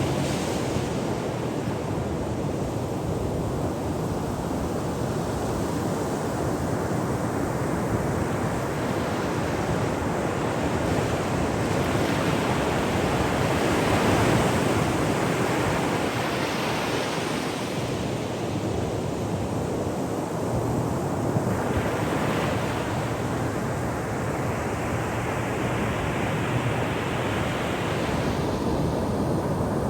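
Ocean waves breaking and washing on a shore: a continuous rushing surf that swells and eases. It is loudest about halfway through, with more surges in the later part.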